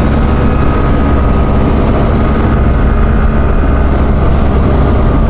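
Motorcycle riding at a steady speed: the engine's even running hum under road and wind noise, with no change in pitch.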